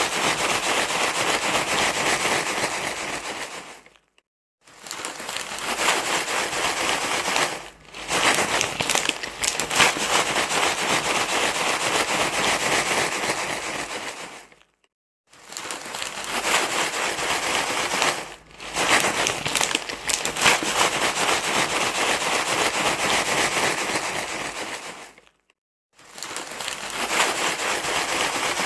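Loud crinkling, crackling rustle, as of a crumpled wrapper or bag, used as a sound to calm a crying baby. It comes in stretches of a few seconds, broken by short drops and brief silences about six times.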